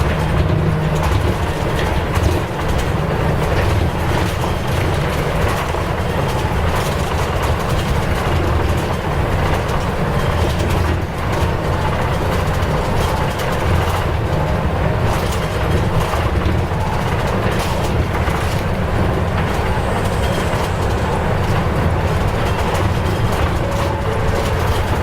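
Nissan Diesel U-UA440LSN diesel city bus under way: a steady low engine drone, with frequent short rattles and knocks from the body and the road.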